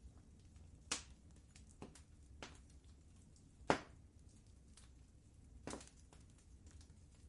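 Wood fire crackling: irregular sharp pops and snaps, about half a dozen, the loudest a little past halfway, over a low steady rumble.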